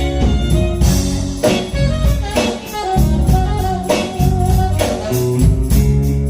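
Music played by a band, led by guitar with a drum kit keeping the beat, in a blues or jazz style.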